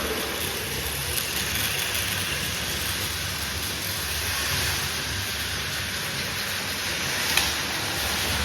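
Battery-powered Plarail toy trains running on plastic track: a steady whirring rattle, with a sharp click about seven seconds in.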